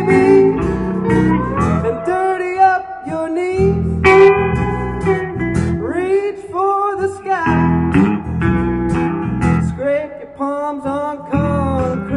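Live band music from an acoustic trio: guitar playing with gliding, wavering notes between the sung lines of a song.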